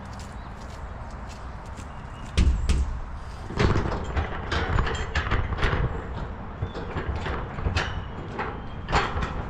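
A sudden clank about two seconds in, then a run of irregular knocks and rattles: a metal farm gate being unlatched and swung open to let animals out to pasture.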